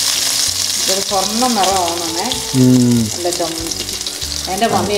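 Shallots and curry leaves sizzling in hot coconut oil in a large pan as they brown. A voice is heard over the frying from about a second in, loudest just before the midpoint, and again near the end.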